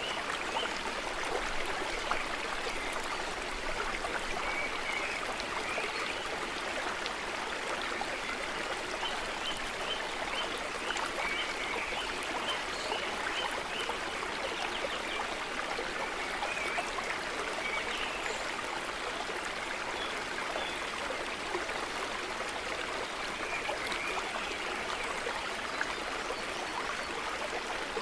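A brook running steadily over stones, an even rushing and trickling of water.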